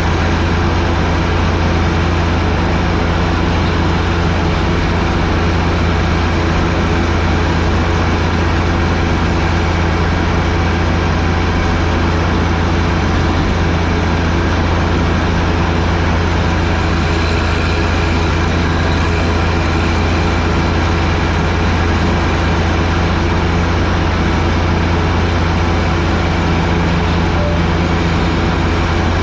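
John Deere 1025R sub-compact tractor's three-cylinder diesel engine running at a steady speed while driving the 47-inch front snowblower. The sound is an even, unbroken drone with a strong low hum.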